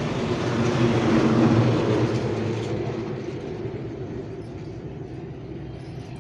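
A heavy truck driving past: low engine sound and road noise build to their loudest about a second and a half in, then fade away.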